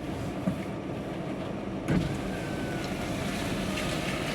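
Inside a truck cab in heavy rain: the truck's engine running and rain on the cab, with a knock about half a second in and another about two seconds in.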